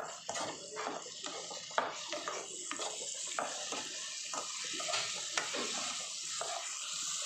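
Chopped onions and tomatoes sizzling in oil in a non-stick pan while a spatula stirs them, with frequent short scrapes and taps against the pan.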